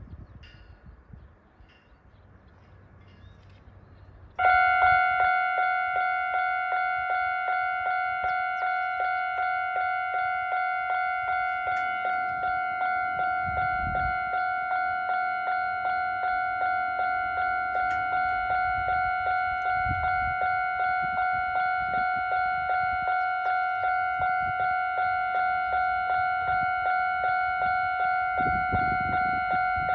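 Level crossing warning bell starts ringing suddenly about four seconds in and keeps on with a steady clanging of about two strokes a second: the crossing is closing for an approaching train.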